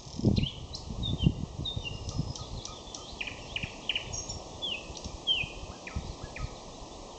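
Nightingale singing: a string of short, varied notes and quick sweeping whistles. Irregular low rumbling thumps run underneath, strongest in the first second or so.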